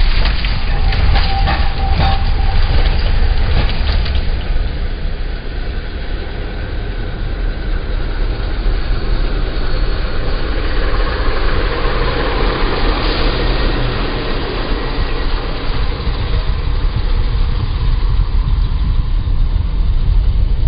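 Heavy road vehicle running, a continuous low rumble of engine and road noise, with a run of sharp knocks and rattles in the first few seconds.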